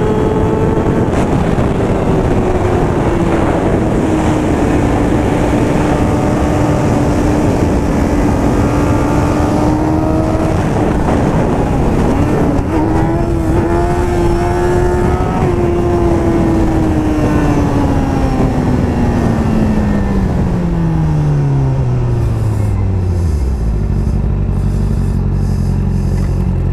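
Sportbike engine under way with wind rush. The revs ease off, climb briefly, then fall steadily as the bike slows, and near the end it settles into a steady idle.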